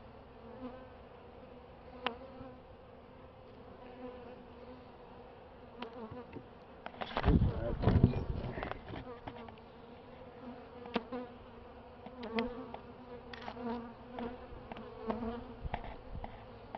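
Honeybee colony buzzing steadily from an opened hive, a constant hum with scattered light clicks. About seven seconds in, a louder low rumbling burst lasts a second or so.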